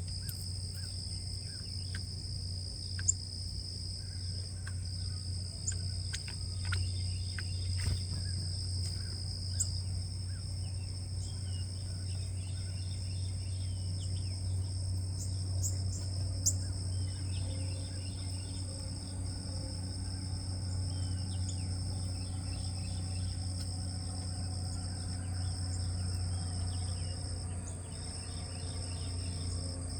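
Crickets trilling steadily at two high pitches, with scattered faint bird chirps and a few sharp taps over a low, steady hum.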